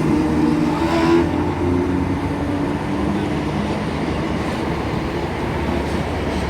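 Class 319 electric multiple unit pulling away from the platform, a steady rumble as the train runs out.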